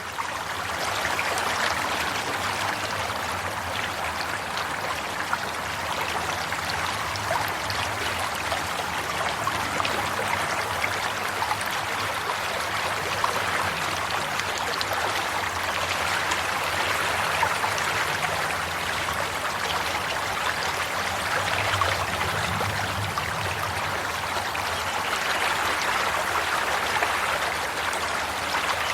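Water running in a stream: a steady babbling flow with many small splashes and trickles.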